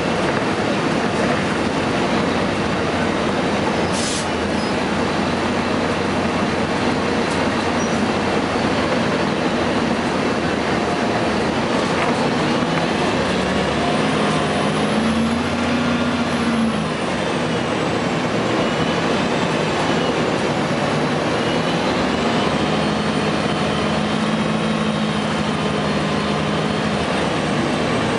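Gillig Phantom transit bus under way, its Cummins ISM diesel and Voith automatic transmission running with a steady rumble. Twice a whine rises and falls as the bus pulls, once about halfway through and again near the end.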